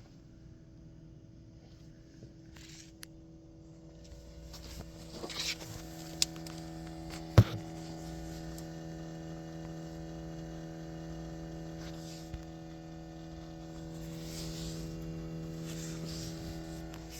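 Steady electric buzz from the driver's-side rear of a 2020 Toyota Corolla SE, with the car switched off for hours. It gets louder about five seconds in, with a sharp knock a couple of seconds later.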